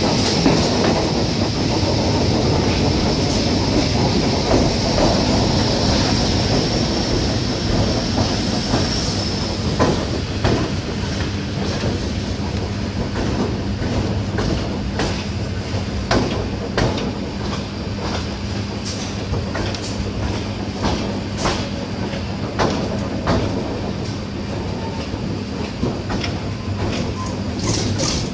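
ER9T electric multiple unit rolling along the track: a continuous rumble of wheels on rails with a high steady squeal over the first third. After that come repeated sharp clacks of the wheels over rail joints, over a steady low hum.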